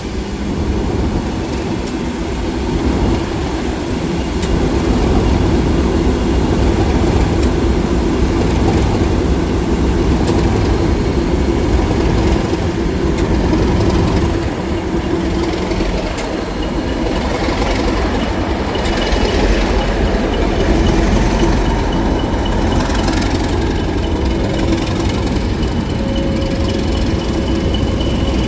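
British Rail Class 37 diesel locomotive running under load with its train, a heavy steady engine drone. A thin high whistle comes in about halfway.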